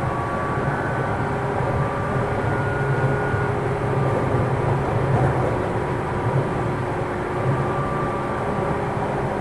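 Running sound inside the motor car of a JR 205 series electric train: steady wheel-and-rail rumble with a faint whine from its external-fan traction motors, the train moving along between stations at a steady pace.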